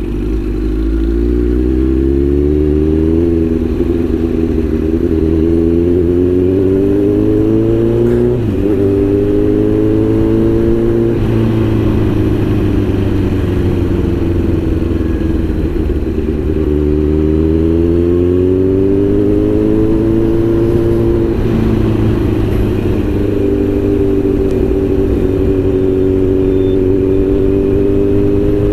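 Kawasaki Z900's inline-four engine under way, its pitch rising as the bike accelerates and dropping sharply at upshifts about three and eight seconds in. It falls away as the bike slows, climbs again, and holds at a steady cruise near the end.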